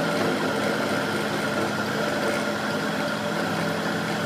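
Machinery running steadily: a constant hum with a few unchanging tones and no strikes or changes.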